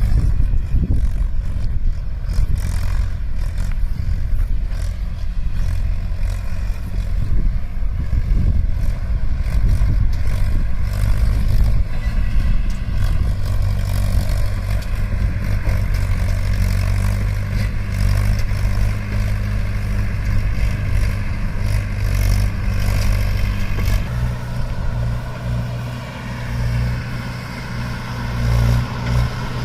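Mahindra 575 DI tractor's four-cylinder diesel engine running under load while pulling a sugarcane trolley. The engine's pitch steps up about 24 seconds in.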